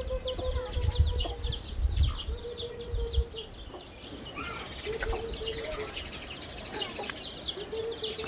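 Many small birds chirping without a break. A longer, level-pitched call lasting about a second repeats four times, roughly every two and a half seconds. Several low thumps come in the first three seconds.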